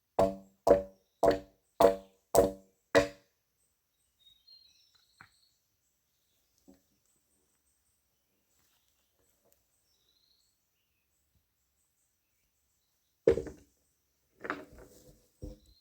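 A tool striking wood in a steady rhythm, about two ringing blows a second, six in all, stopping about three seconds in. Faint bird chirps follow, then near the end one loud knock and a few smaller clatters of wood.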